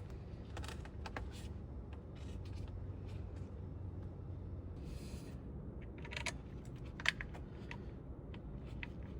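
Scattered small metallic clicks and scrapes of steel bolts being handled and started by hand into a water pump on an engine block, against a low steady hum.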